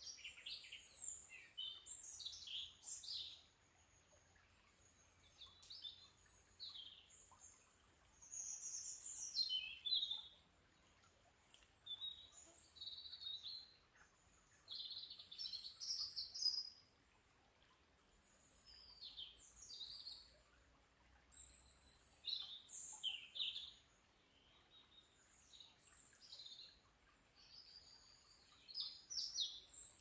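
Several songbirds singing, with quick high chirps and short trills coming in phrases of a few seconds, separated by brief pauses.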